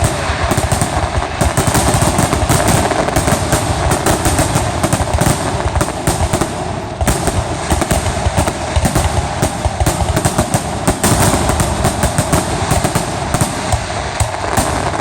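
Fireworks finale: a dense, continuous barrage of aerial shells bursting in rapid, overlapping bangs and crackles, with no pause.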